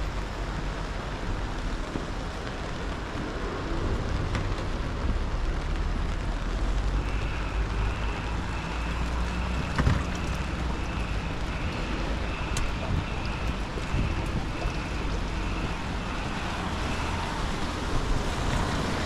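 Rain hissing on a city street with the low rumble of passing traffic. For about ten seconds in the middle, a steady series of short, high electronic beeps sounds, and there is one sharp knock about ten seconds in.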